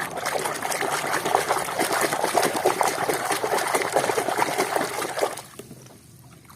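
A stream of water running and splashing over a plastic toy truck as it is rinsed clean of mud, stopping about five and a half seconds in.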